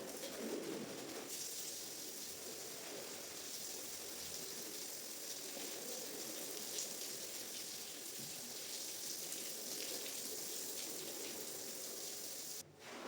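Water running and splashing steadily onto a soaked shaggy rug as it is washed. It cuts off suddenly near the end.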